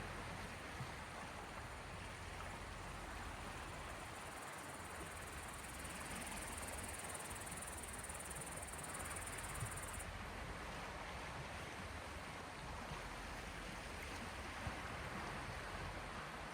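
Small sea waves washing and lapping, a steady even wash.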